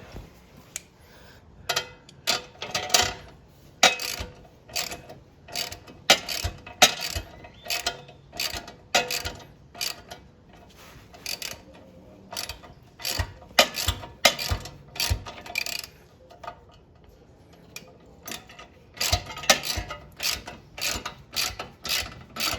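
Socket ratchet wrench clicking in short, uneven strokes, with brief pauses, as a skid-plate bolt is turned while its Phillips-head screw is held from the other side.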